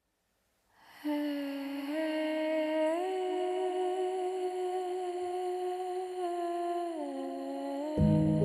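Humming in long held notes, a slow melody that steps up in pitch twice and then back down. Music with a deep bass comes in near the end.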